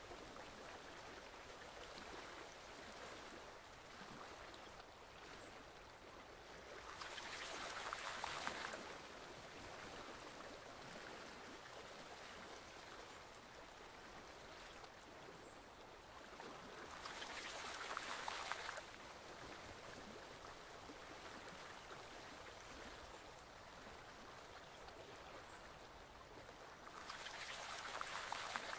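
Forest stream flowing, a faint steady rush of water. About every ten seconds it swells for a second or two and then drops back sharply.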